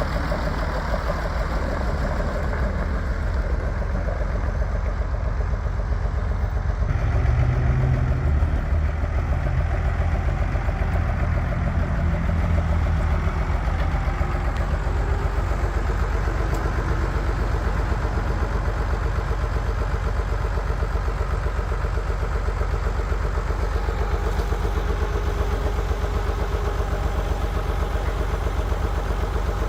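1976 International Harvester 1066 tractor's turbocharged six-cylinder diesel running at idle. About seven seconds in its low note grows louder for several seconds, then settles back to a steady idle.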